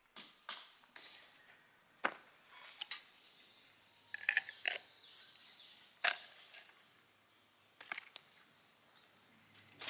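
Scattered sharp clicks and snaps at irregular intervals, about eight in all, with a short burst of high chirping a little past the middle.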